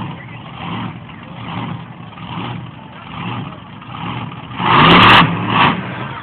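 Maverik monster truck engine running, its note swelling and easing about once a second, then a loud rev about five seconds in that briefly distorts the recording, followed by a shorter blip.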